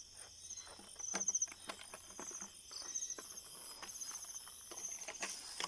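Insects chirping in repeated high pulses, with crackling rustles and snaps of grass and brush as someone moves through the vegetation.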